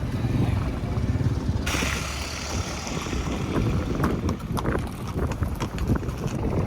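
Steady low rumble of a moving vehicle with wind noise. About a second and a half in, a brighter hiss comes in suddenly, and scattered clicks and knocks follow.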